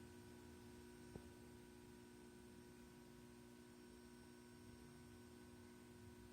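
Near silence: a faint steady hum, with a single short click about a second in.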